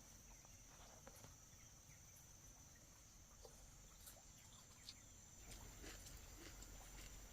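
Near silence: a faint steady high-pitched hum with a few soft scattered clicks.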